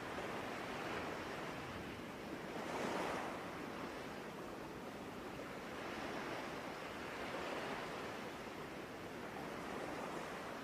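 Steady wash of ocean surf, swelling most strongly about three seconds in.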